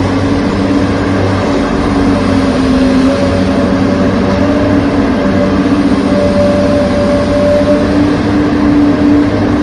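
Heavy truck engine sound running steadily, its pitch wavering a little without a clear rev.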